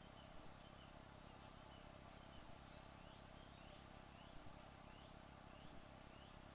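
Near silence: a steady faint hiss with faint short high chirps, one every half second or so in the second half, and a few soft clicks.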